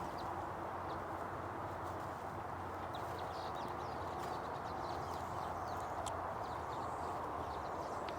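Steady rush of flowing river water, with short bird chirps scattered over it.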